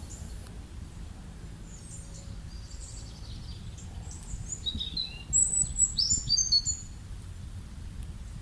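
Small birds chirping in short high notes, a burst of louder chirps about five seconds in, over a steady low rumble of background noise.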